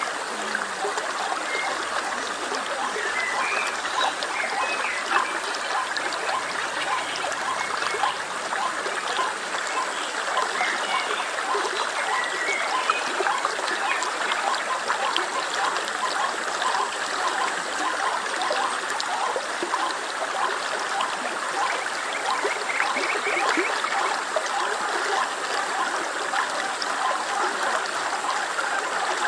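Stream water babbling and trickling steadily, with a few faint high chirps about three seconds in and again near the end.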